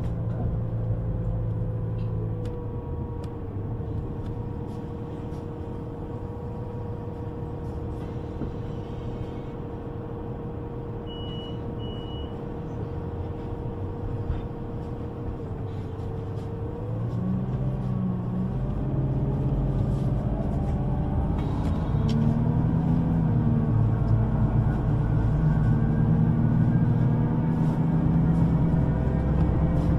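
Inside a city bus: the engine idles steadily, two short high beeps sound about eleven seconds in, then the bus pulls away about halfway through, its drive note rising in pitch and growing louder.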